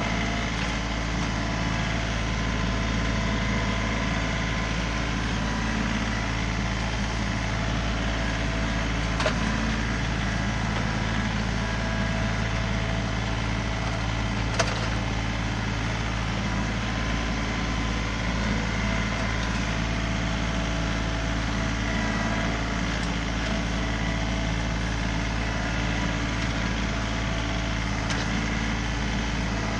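John Deere 3038E compact tractor's three-cylinder diesel engine running at a steady speed, with two short sharp knocks, about a third of the way in and about halfway through.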